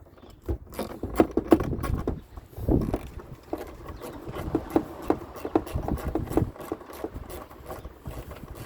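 Socket ratchet clicking in short runs as 10 mm nuts on a car's rear light cluster are undone, with wind buffeting the phone's microphone.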